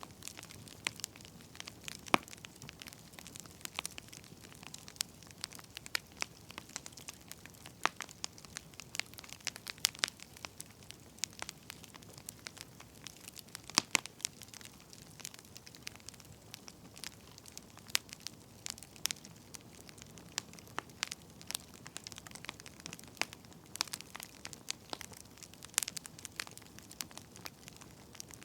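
Wood fire crackling: irregular sharp pops and snaps, a few louder ones, over a soft steady hiss.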